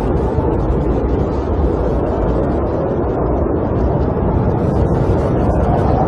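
Snowstorm wind buffeting a camper: a steady, dense, low rumbling roar with no breaks.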